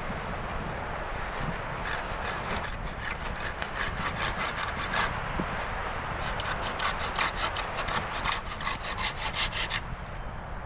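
Hand saw cutting through wood in quick, even back-and-forth strokes that stop shortly before the end.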